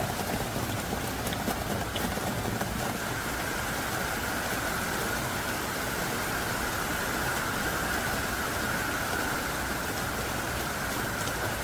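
Heavy rain pouring down steadily: a dense, even hiss of downpour with a low rumble beneath it.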